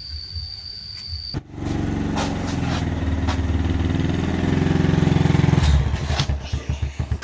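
A small engine starts up abruptly about a second and a half in and runs, getting louder, then drops away in uneven pulses near the end.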